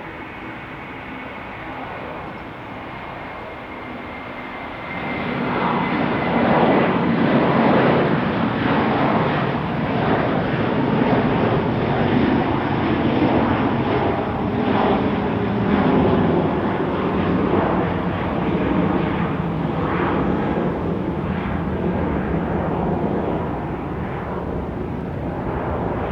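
Jet airliner's engines passing close by. A faint high whine at first gives way about five seconds in to a loud, wavering engine rumble that stays up to the end.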